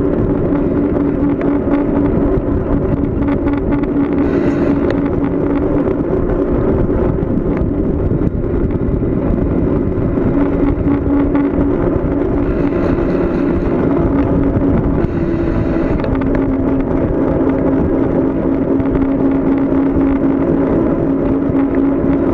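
Wind rushing over the microphone and road noise on a downhill bicycle ride, with a steady hum that shifts slightly in pitch a couple of times and a few short hissy patches.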